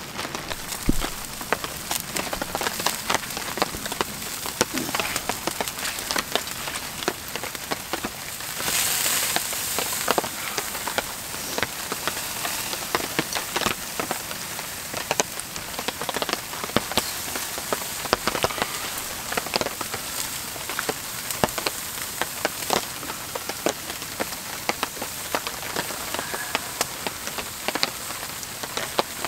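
Steady rain falling, with many sharp drops ticking on a tarp overhead; it comes down a little harder for a second or two about nine seconds in.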